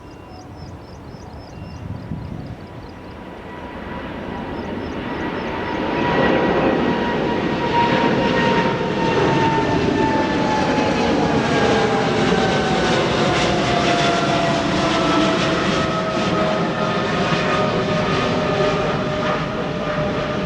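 Jet airliner passing by: its engine noise builds over the first few seconds and then stays loud, with an engine whine that falls slowly in pitch as it goes past.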